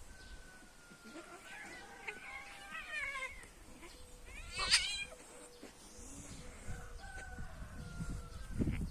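Domestic cat meowing and yowling: a wavering, drawn-out call, then a short, sharp, loud cry about halfway through. A low thump comes near the end.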